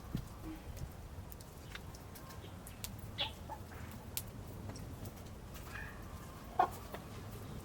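A few short animal calls, the loudest near the end, over a low steady rumble with scattered faint clicks.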